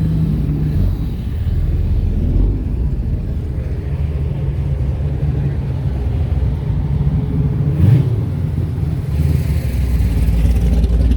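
Car engines rumbling steadily at low pitch, with a short louder knock or thump about eight seconds in.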